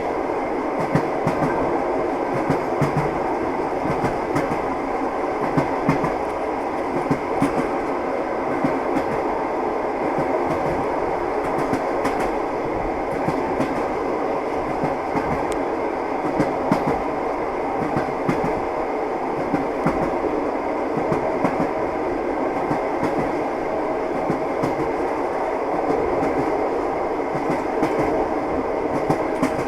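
Train running along the track: a steady rumble with the clickety-clack of wheels over rail joints.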